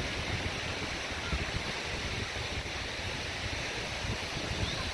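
Wind buffeting the microphone in uneven low rumbles over the steady hiss of surf.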